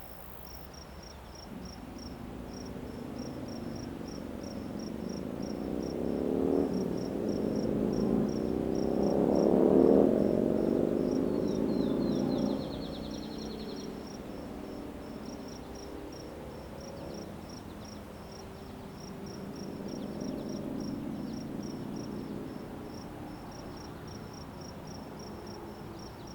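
Crickets chirping in a steady, evenly pulsed rhythm. Under them, the hum of a passing engine swells to its loudest about ten seconds in, drops off sharply a couple of seconds later, and returns more faintly near the end.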